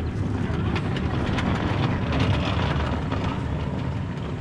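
Narrow-gauge railway train running, a steady low rumble with a few faint clicks.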